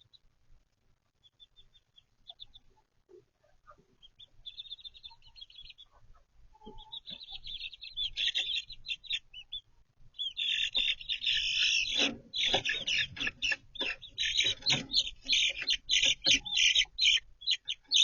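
Young chicks peeping in short, high-pitched chirps, scattered at first, then a dense, loud chorus of peeps from about halfway through. Lower clucks or scratching sounds join in near the end.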